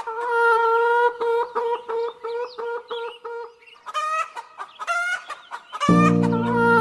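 A chicken clucking: one long drawn-out call, then a run of short clucks at about three a second, then a few louder squawking calls. Backing music with held chords comes in near the end.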